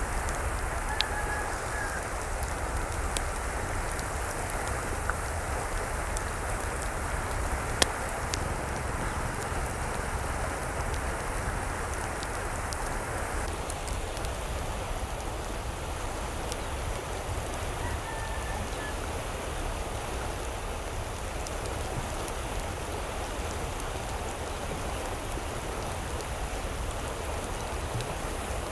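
Steady rain falling, with a few sharp taps in the first eight seconds. Faint, brief bird calls come about a second in and again near eighteen seconds.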